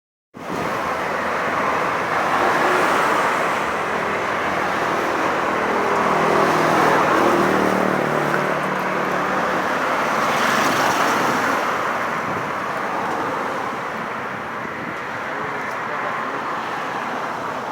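Road traffic with motorcycles moving off from a traffic light: a steady wash of engine and tyre noise. One engine note swells between about five and nine seconds in as a bike accelerates past.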